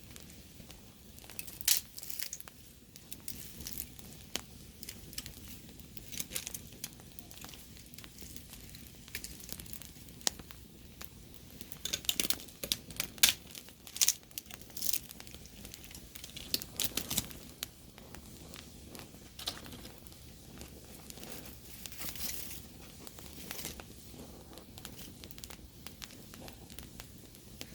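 Wood campfire crackling, with irregular sharp pops over a faint low hiss; a run of louder pops comes about halfway through.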